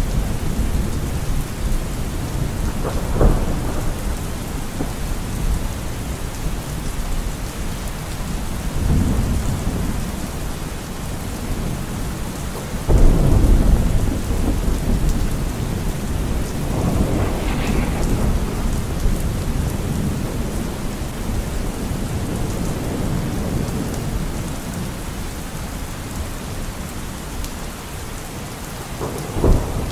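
Steady rain with repeated rolls of thunder, a sharp crack about three seconds in, the loudest rumble about halfway through and another crack near the end.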